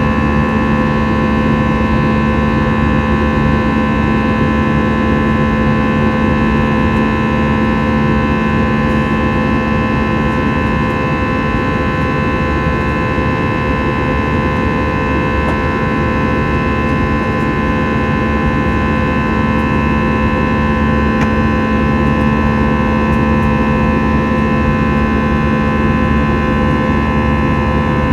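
Airbus A321 jet engines and airflow heard from inside the cabin: a steady loud roar with constant whining tones.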